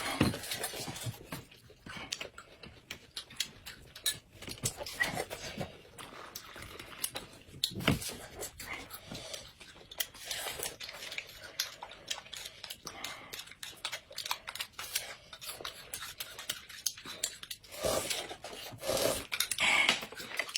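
Close-up eating sounds: chewing, with many small clicks and clinks of cutlery and dishes and one sharper knock about eight seconds in.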